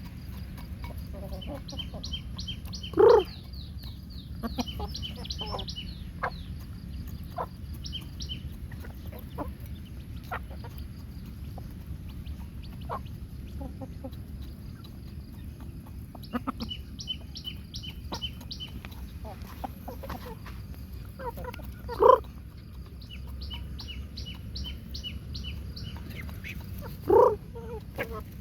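Backyard chickens clucking, with three loud, short squawks: about three seconds in, about two-thirds of the way through, and near the end.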